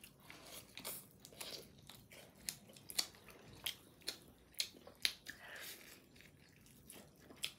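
Chewing and biting during a meal of spicy chicken wings and noodles: an irregular string of short, sharp mouth clicks and smacks.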